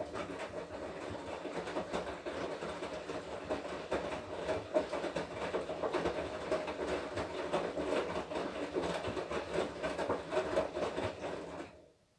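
Washing machine drum turning through a wash-cycle tumble, the laundry and water churning with a steady rattling clatter. It stops suddenly near the end as the drum pauses between turns.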